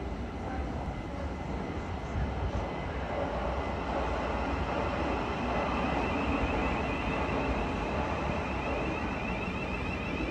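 A train running through the station, a steady rumble that grows a little louder, with a wavering high whine joining it about six seconds in.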